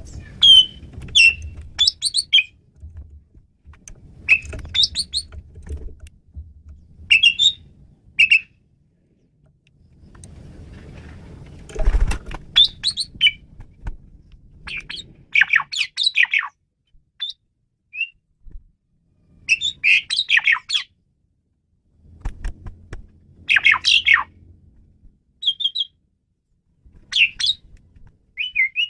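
Asian pied starling (jalak suren) singing in short, varied whistled and chattering phrases separated by brief pauses. A low background rumble comes and goes, with one dull thump about midway.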